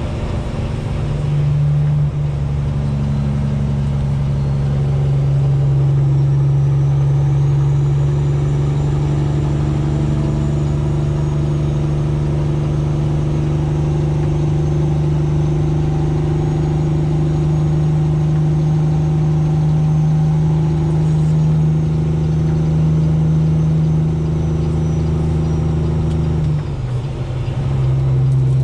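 Vehicle engine and drivetrain droning steadily while driving at a constant speed, with a faint high whine above it. The drone dips briefly near the end, then picks up again.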